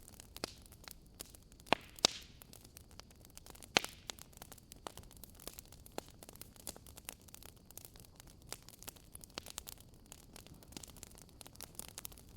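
Firewood burning in a fireplace, crackling steadily with scattered small ticks and a few louder sharp pops about two and four seconds in.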